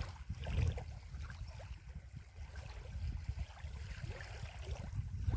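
Wind rumbling on the microphone, with small wind-driven waves lapping at the lake's edge.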